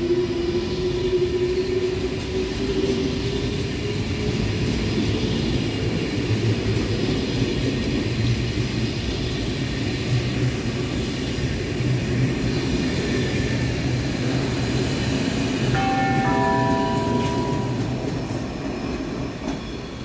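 Double-deck TGV high-speed train pulling out and accelerating: a motor whine rises slightly in pitch over the first few seconds, then gives way to a steady rumble of wheels on rail. A short run of steady tones at different pitches sounds about three-quarters of the way through.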